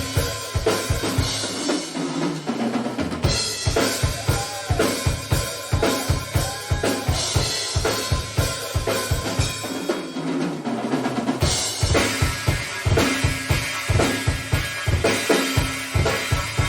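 Rock drum kit solo played live: fast, steady bass drum strokes under snare and tom hits, with cymbals washing in from about twelve seconds in.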